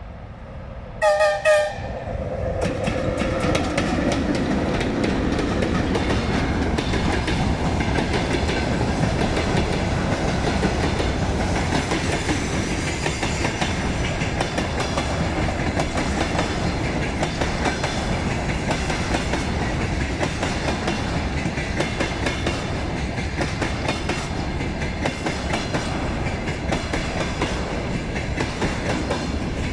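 A freight locomotive gives a short horn blast about a second in, then runs past. A long string of loaded grain hopper wagons follows with a steady rumble and the clickety-clack of wheels over rail joints.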